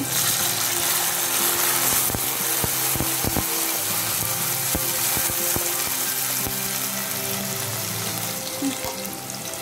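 Chopped onion, tomato, peanuts and curry leaves sizzling in hot oil in a non-stick pan. They are stirred with a spatula, with a few sharp scraping knocks about three seconds in.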